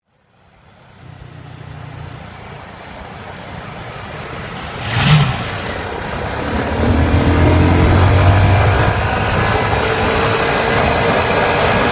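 Honda MSX SF minibike's 125 cc single-cylinder engine running and revving, growing louder, with a brief loud whoosh about five seconds in and a rise in pitch from about six to nine seconds before it settles into a steady run.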